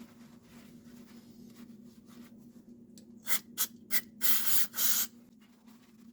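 Aerosol carb cleaner sprayed onto carburetor parts: three short squirts about three seconds in, then a longer spray lasting nearly a second, over a steady low hum.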